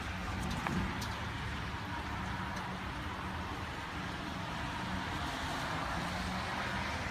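Steady hiss of rain falling in a thunderstorm, over a low background rumble, with a few faint clicks in the first second.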